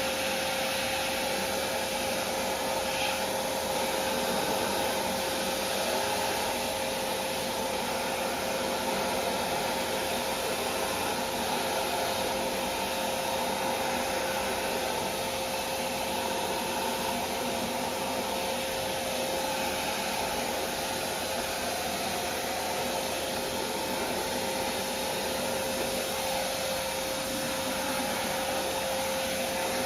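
Vacuum cleaner running steadily, a continuous motor rush with a steady whine.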